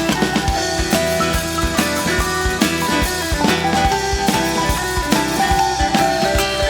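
Live rock band playing an instrumental passage: electric guitar with bass and a drum kit keeping a steady beat.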